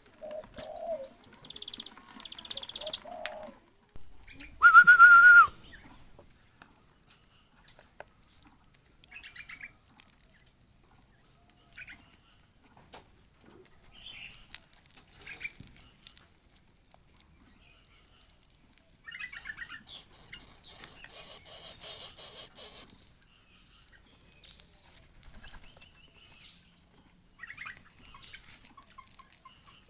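A bird chirping and flapping its wings, with bursts of wing flapping about two seconds in and again around twenty seconds. About five seconds in comes one loud, whistle-like note held for about a second.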